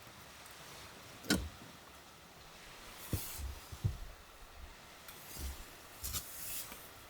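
Objects being handled at close range: a sharp click a little over a second in, then several soft knocks with brief rustles.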